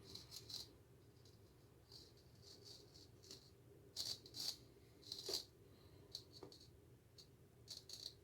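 Straight razor scraping stubble off lathered skin: short scratchy strokes in irregular runs, a few of them sharper about four and five seconds in.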